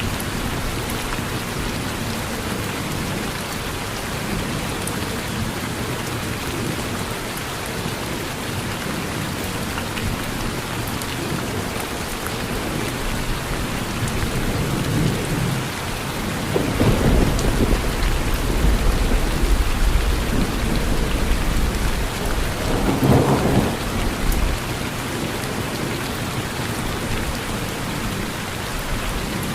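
Steady rain falling on a porch. A little past halfway, a roll of thunder rumbles in, swells to a louder peak about three-quarters of the way through, then dies away.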